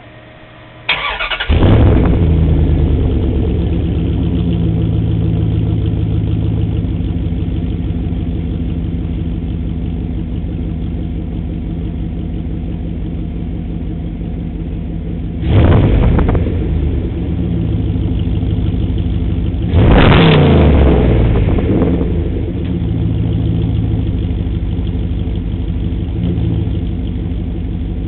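Dodge Durango 5.9-litre V8 breathing through a Cherry Bomb glasspack muffler: cranked and started about a second in, then idling with a deep, steady exhaust note. It is revved twice, briefly, about 15 and 20 seconds in, and drops back to idle each time.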